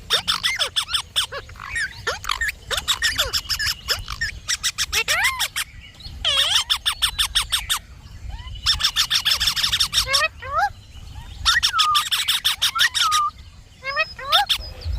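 Indian ringneck parakeet chattering: about five bursts of fast, rattling chatter, each a second or two long, with short rising and falling whistled notes between them.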